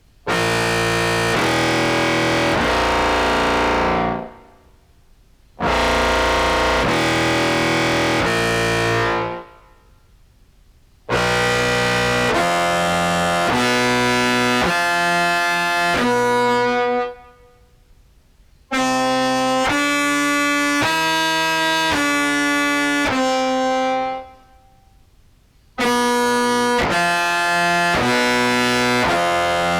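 Contrabass clarinet played through an octave pedal set to mix octaves and into a fuzz pedal, giving a thick, buzzing distorted tone. Five phrases of held notes that step in pitch, each broken off by a short pause for breath.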